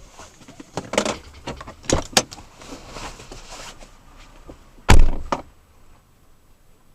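Third-generation Toyota Tacoma's door: a few clicks and knocks as it is opened, then a loud slam as it is shut about five seconds in.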